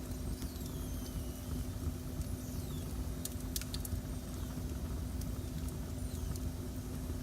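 Wood fire burning in a fireplace: a steady low rumble with sharp crackles and pops and a few thin whistles that fall in pitch, over a steady low hum.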